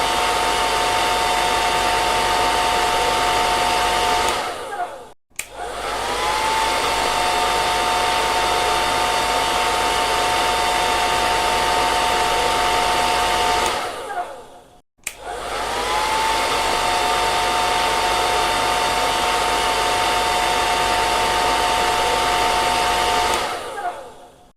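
Hair dryer blowing steadily, with a motor whine over the rush of air. It winds down and stops twice, and each time starts again with a rising whine as the motor spins up. It winds down a third time just before the end.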